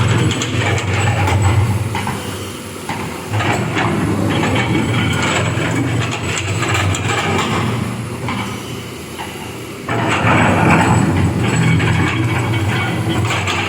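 Backhoe excavator's diesel engine working under load, its drone rising and falling as the hydraulics are worked, dropping off twice and surging back up sharply about ten seconds in.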